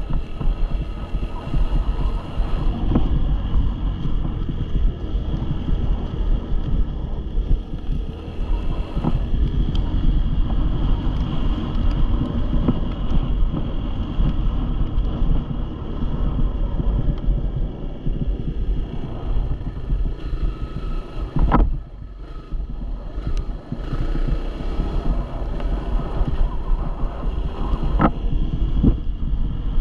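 Wind buffeting the microphone over a dirt bike's engine running steadily, with two sharp knocks, the first about two-thirds of the way in and the second near the end.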